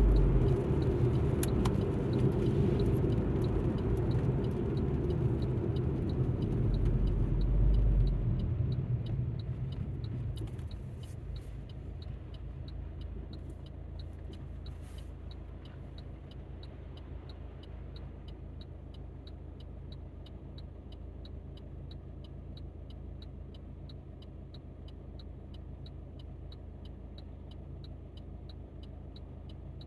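Alfa Romeo MiTo heard from inside the cabin: road and engine noise fades over the first ten seconds or so as the car slows. It then settles into a steady low engine hum at a standstill or crawl, with faint, evenly spaced ticking.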